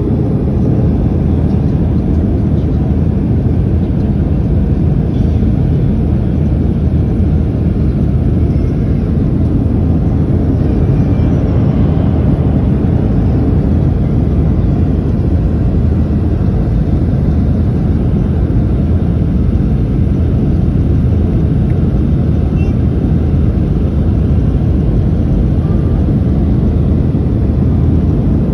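Boeing 737 engines and airflow heard from inside the passenger cabin as a loud, steady low rumble that hardly changes.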